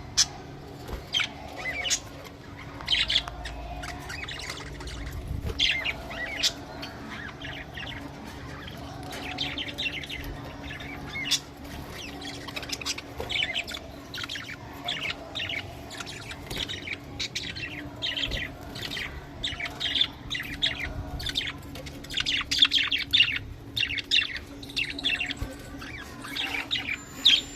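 A group of budgerigars chirping and chattering in many quick, short calls that grow busier in the second half, over a steady low hum.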